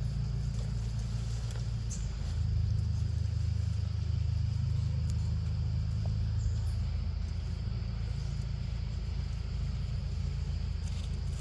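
Low, steady engine-like rumble, growing louder about two seconds in and easing a few seconds later, with a faint steady high hiss above it.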